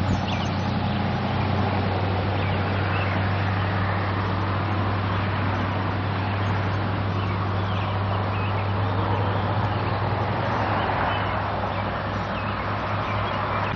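A steady low engine hum, with faint short chirps above it; the hum fades near the end.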